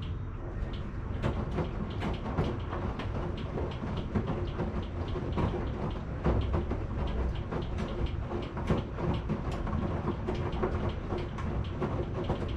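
Washing machine running, a steady low rumble of the turning drum with a rapid, irregular clatter of clicks and knocks from the load tumbling inside.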